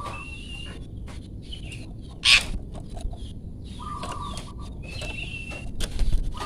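Bird calls from a masteran song-tutor recording for training long-tailed shrikes: a repeated two-note whistled phrase, a short low note then a longer higher one, about every four seconds. A harsh, loud noisy call breaks in about two seconds in, with more harsh calls near the end.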